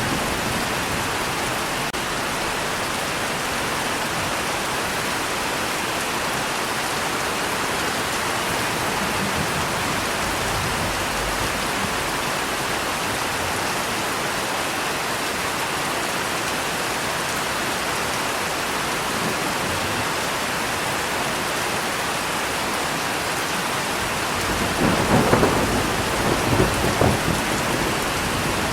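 Steady rainfall, with a peal of thunder crackling through several loud peaks near the end.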